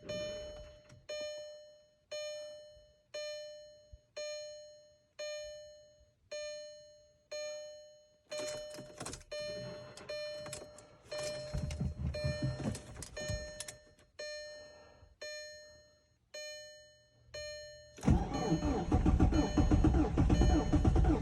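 A car's dashboard warning chime ringing about once a second, then about eighteen seconds in a VW Passat TDI's turbodiesel engine starts from cold and runs loudly.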